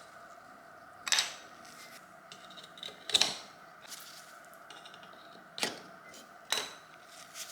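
Four sharp clicks and knocks of hard objects being handled, spaced a second or two apart, over a steady background noise.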